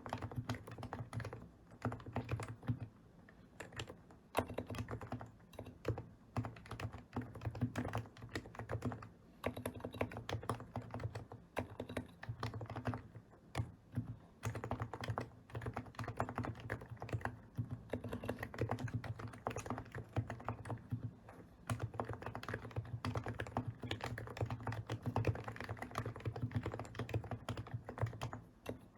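Typing on a custom enthusiast keyboard: a fast, continuous run of keystrokes with a couple of short pauses.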